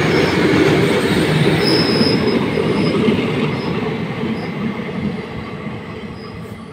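Freight train of open steel wagons rolling past, its wheels rumbling on the rails with short high wheel squeals, most marked about two seconds in. The brake van goes by and the sound fades steadily as the train draws away.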